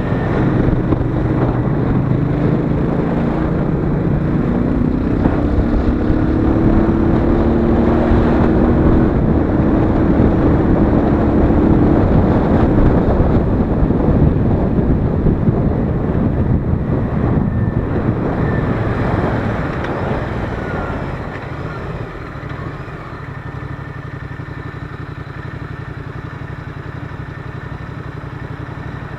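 Royal Enfield Interceptor 650's parallel-twin engine under way, accelerating with its note rising over a rush of wind. About three quarters of the way through it eases off to a quieter, steady low running note.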